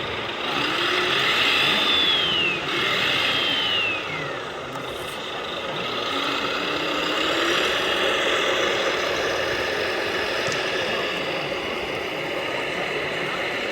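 Radio-controlled model truck running, its electric drive whining up and then down in pitch twice in the first few seconds, over a steady rushing background.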